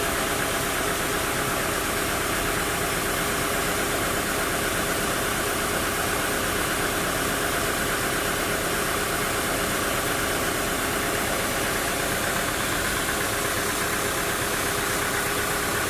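Sawmill machinery running steadily: an engine or motor at a constant speed, a continuous mechanical drone with a steady tone and no breaks.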